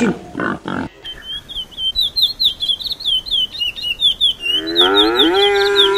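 A small bird chirping rapidly and repeatedly, many short high chirps a second. Near the end it is joined by a long, lower call that rises and then holds.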